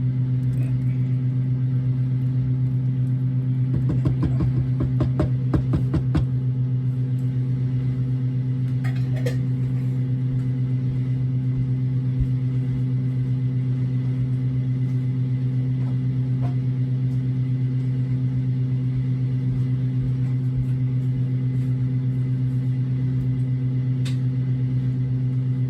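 A steady low hum from a running kitchen appliance, with a short burst of clattering about four seconds in.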